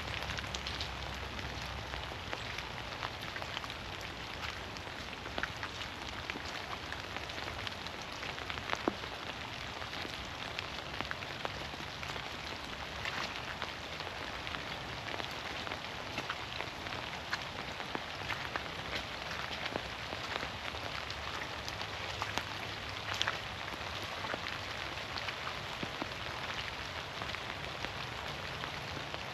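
Steady rain falling through forest trees, with many scattered single drops ticking sharply on leaves.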